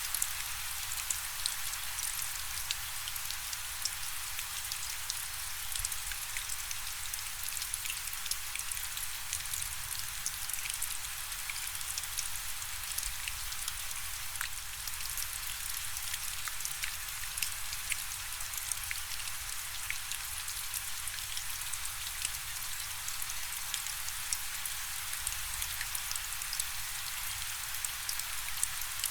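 Steady rain falling: an even hiss dotted with many small ticks of individual drops hitting a surface.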